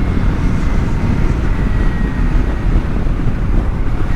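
Kawasaki Versys-X 300's parallel-twin engine running steadily while riding, with wind noise on the microphone.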